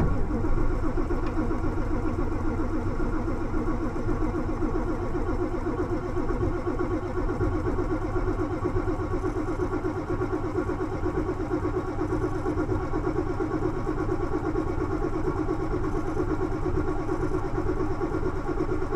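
Ford F-250 diesel engine being cranked over by the starter motor in a cold start, turning over steadily and fast for a long stretch without catching, which the owner answers with more glow plug cycles.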